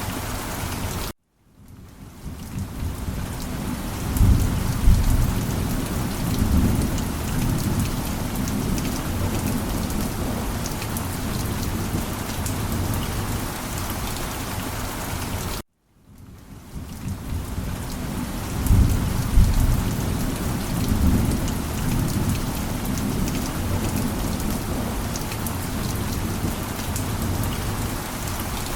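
Steady rain with rolling thunder rumbling low, twice. Twice the sound cuts out completely for a moment and fades back in, as a loop restarting, and each time the thunder swells a few seconds later.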